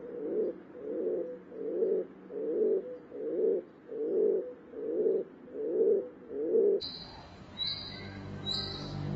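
Rock pigeon cooing over and over, about nine low coos roughly one every 0.8 seconds. Near the end the cooing stops and music with repeated high chiming notes comes in.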